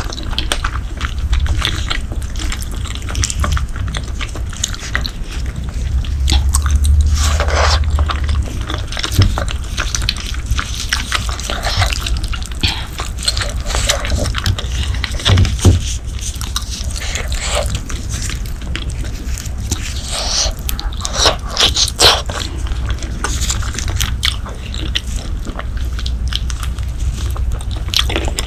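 Close-miked eating of braised pork leg: biting and chewing with many short mouth clicks throughout, over a steady low hum.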